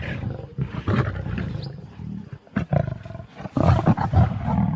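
Lions growling and snarling in short, repeated outbursts as they fight over a warthog kill, loudest in the last second or so.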